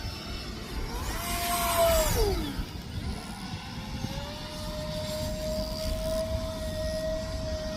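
Electric ducted-fan motor of a Freewing F-35 RC jet whining in flight. About a second in, the whine swells and then drops steeply in pitch as the jet passes, and from about four seconds a steady, even whine holds. A low rumble of wind on the microphone runs underneath.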